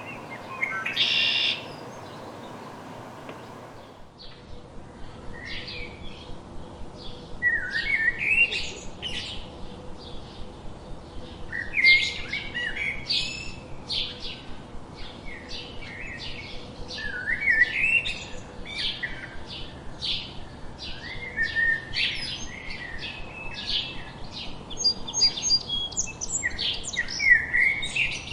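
Several songbirds chirping and singing, with a short loud burst of chirps about a second in; after about four seconds the scene changes to a busy chorus of quick chirps, with one song phrase coming back every four to five seconds.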